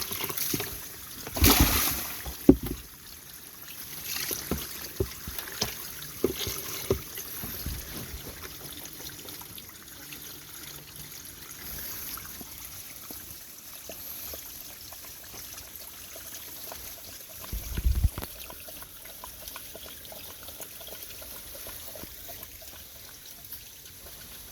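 Water trickling steadily, with scattered small knocks and clicks and two louder bumps, one about a second and a half in and one about eighteen seconds in.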